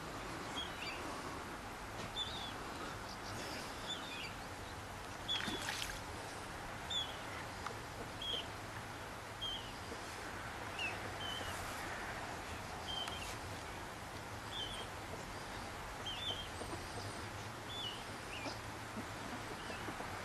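A bird calling in short, high chirps, about one a second, over steady background noise. A brief louder noise comes about five seconds in.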